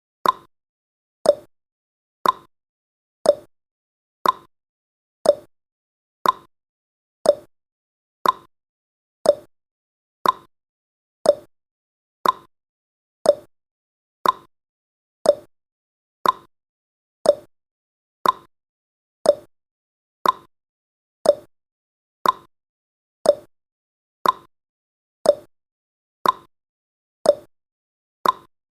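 Clock-tick sound effect of a countdown timer: one short, sharp tick every second, alternating slightly in pitch like a tick-tock.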